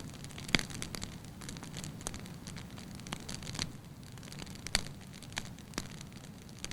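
Wood fire burning in a fireplace: logs crackling and popping at irregular intervals over a low, steady rumble of flame, with a few sharper pops, the loudest about half a second in and near the five-second mark.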